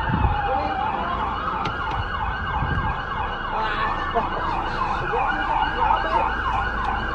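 Emergency vehicle siren sounding: a slow wail that falls and rises, switching about three seconds in to a fast yelp of about three sweeps a second, over a low rumble of traffic.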